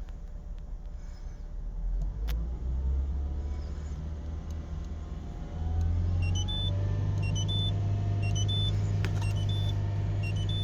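Citroen C2 engine running in gear with the front wheels spinning freely off the ground, the engine note rising about two seconds in and again near six seconds, then holding steady. From about six seconds on, a repeating short electronic beeping sounds over it.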